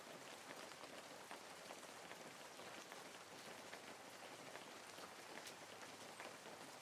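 Faint, steady rain falling, with many small drops ticking on surfaces.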